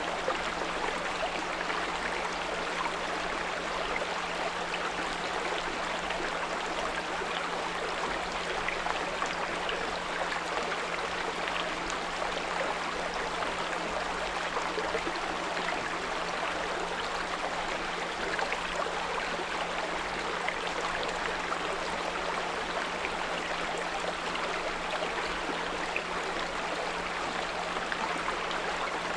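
A small brook flowing steadily, its water noise even and unbroken, with a steady low 174 Hz pure tone held underneath.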